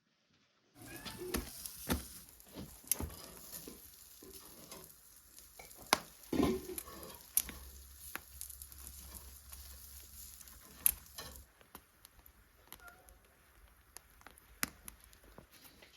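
Sizzling hiss, as of food frying in a pan, with scattered sharp clicks and knocks; the sizzling stops about eleven seconds in, leaving a few faint clicks.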